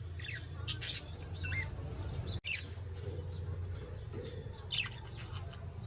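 Pet budgerigars chirping in short, scattered calls over a steady low hum.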